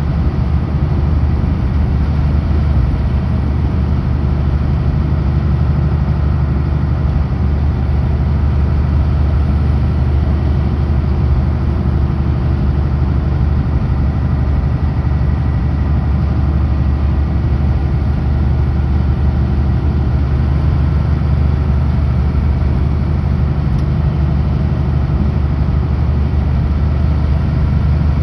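Kenworth W900L heavy truck's diesel engine running steadily at highway cruise: a constant low drone with road noise.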